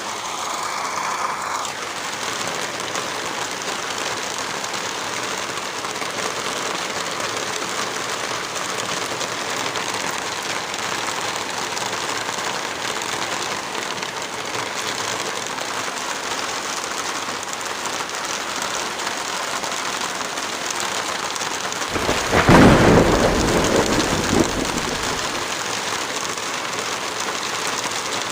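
Heavy rain falling in a steady hiss, with a single thunderclap about three-quarters of the way through that rumbles on for about three seconds before fading.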